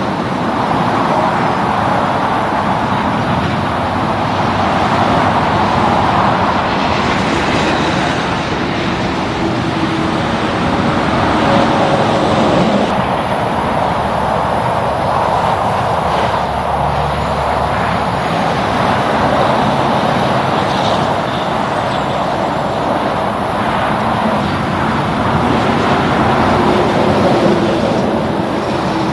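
Steady highway traffic noise: tyre roar and engines of passing trucks and cars, swelling and easing a little as vehicles go by.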